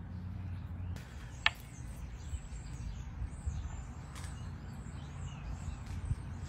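Birds chirping in thin, high, wavering calls. A low hum stops about a second in, and a single sharp click comes about a second and a half in.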